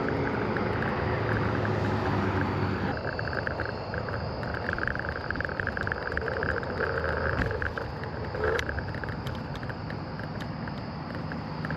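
A vehicle engine running steadily. About three seconds in the sound changes abruptly to a noisier vehicle sound with a pulsing, chirring high band, and there is a single sharp click near the end.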